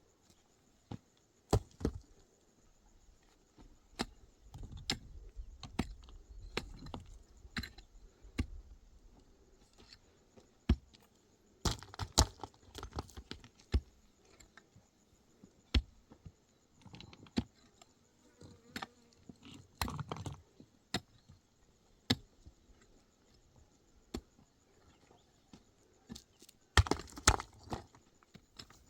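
Hand-tool work: irregular sharp knocks, some in quick clusters, with short stretches of scraping and rustling between.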